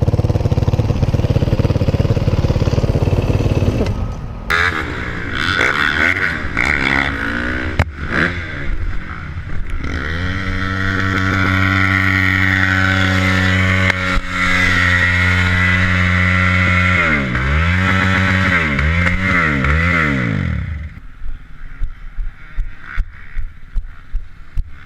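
Dirt bike engine running, at first under heavy low rumbling noise, then holding a steady note before it is revved up and down several times. It cuts off about twenty seconds in, leaving scattered clicks and knocks.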